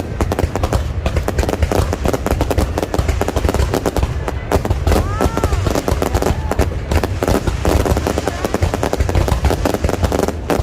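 A fireworks display bursting in a dense, continuous barrage of bangs and crackles, with crowd voices under it. About five seconds in, a short whistle rises and falls.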